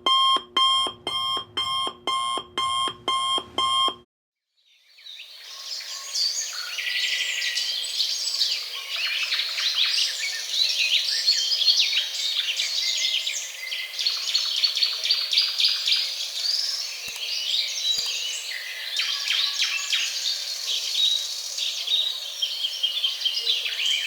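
An alarm clock rings in rapid repeated pulses, about two and a half a second, and stops about four seconds in. After a short gap, a dense chorus of birds chirping and singing fills the rest.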